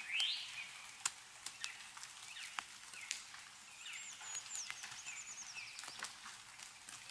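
Meltwater drips falling from snow-laden trees as scattered sharp single ticks, with songbirds calling: a quick rising chirp right at the start and a high, rapid trill a little past the middle.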